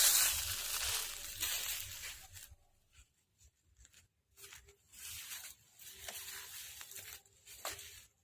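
Rustling and scraping noises, denser over the first couple of seconds, then in short scattered bursts.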